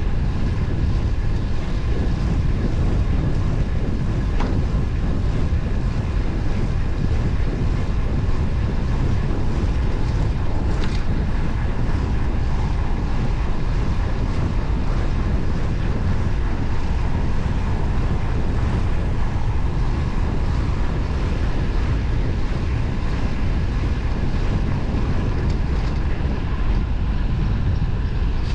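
Wind buffeting the microphone of a moving road bike: a steady low rush of air noise with road and tyre noise under it.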